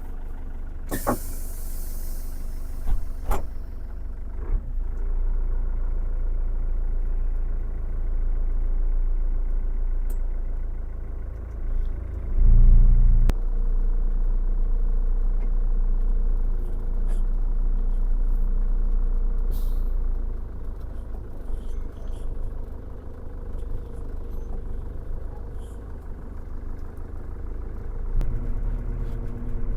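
A vehicle's engine running steadily. There is a short hiss about a second in and a louder surge in the engine sound about twelve seconds in.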